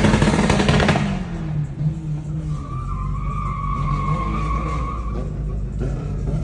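A car spinning its tyres at a meet. Loud engine and tyre noise drops off about a second in. A lower engine note and a steady high tyre squeal follow for a few seconds.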